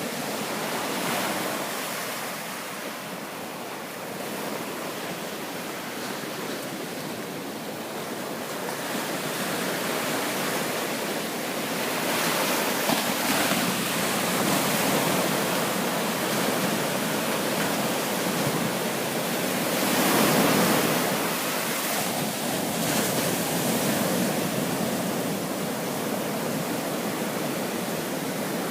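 Ocean surf breaking and washing up the beach: a steady rush that swells and eases as waves come in, loudest about two-thirds of the way through.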